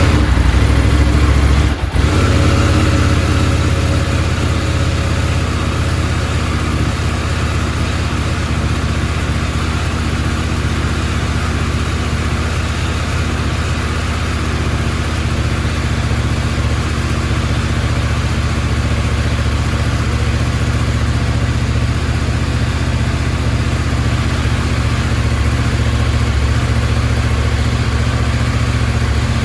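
2024 KTM 790 Adventure's parallel-twin engine, breathing through a Wings titanium slip-on exhaust, running just after a cold start. It is loudest for the first couple of seconds, dips sharply for an instant about two seconds in, then settles into a steady idle.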